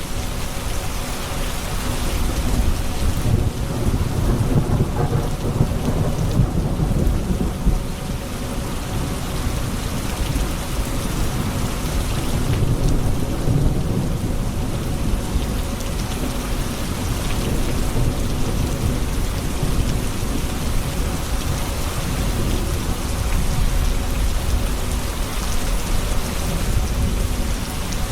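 Steady heavy rain with low rolling thunder beneath it, the rumble swelling a few times.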